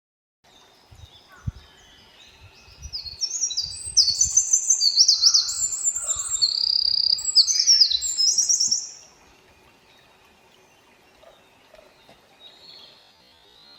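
Eurasian wren singing: one long, loud, rapid run of high trills lasting about six seconds, starting a couple of seconds in.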